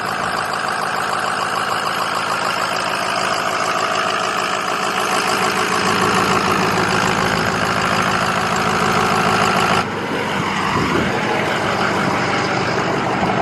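Ford Super Duty pickup's 6.0-litre Power Stroke V8 turbo-diesel idling steadily, heard close with the hood up. The sound changes abruptly about ten seconds in, its higher part dropping away.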